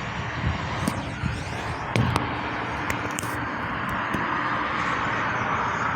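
Steady road traffic noise from passing vehicles, with a few short clicks and knocks about one and two seconds in.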